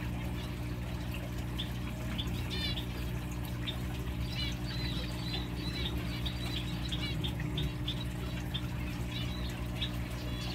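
Birds chirping in quick, high, repeated calls over a steady low hum.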